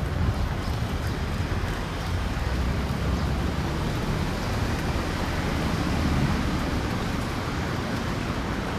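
Steady outdoor street noise: a continuous low rumble of road traffic with wind on the microphone.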